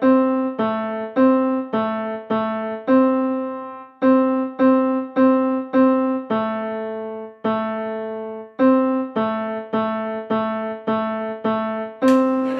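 Keyboard playing a simple tune of single piano-like notes, about two a second with a few held longer, stepping mostly between two neighbouring low pitches. A burst of noise joins near the end.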